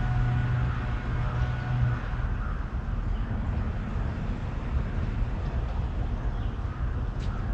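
A steady engine hum that stops about two seconds in, over a continuous low outdoor rumble, with one sharp click near the end.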